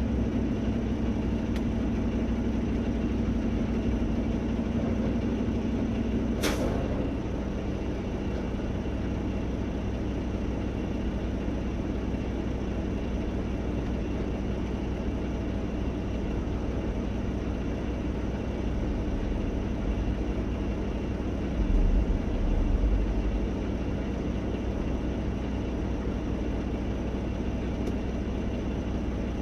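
Semi truck's diesel engine running steadily, with a brief sharp sound about six seconds in and a short low bump a little past two-thirds of the way through.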